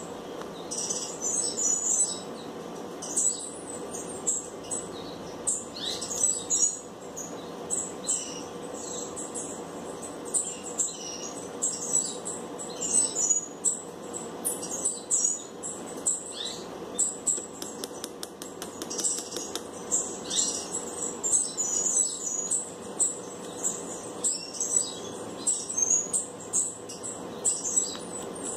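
Small birds chirping over and over, short high calls often falling in pitch, scattered throughout, over a steady low hum.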